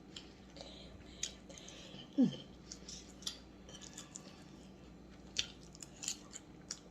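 Eating sounds: scattered small clicks and smacks of chewing on rice and chicken, with a short falling voiced sound about two seconds in.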